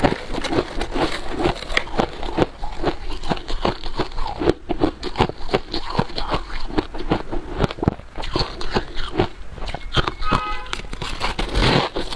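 Freezer frost being bitten and chewed close to the microphone: a dense run of crisp, crackly crunches. A brief pitched tone is heard about ten seconds in.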